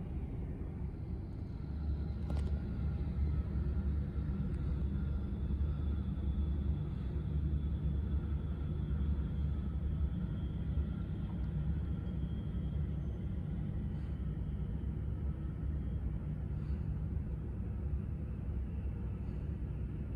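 Low, steady rumble of jet aircraft engines, swelling slightly about two seconds in, with a faint thin whine above it.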